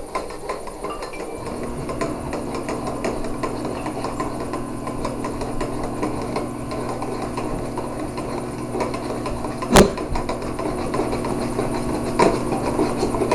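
A spoon stirring the dish soap, baking soda and food colouring mixture in a container: a run of small clicks and scrapes. There is one sharp knock about ten seconds in and another near the end. A steady low hum comes in about a second and a half in.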